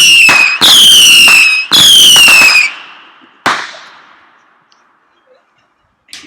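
Whistling firework missiles screaming off one after another, each shrill whistle falling slightly in pitch. A single sharp bang comes about three and a half seconds in and fades away.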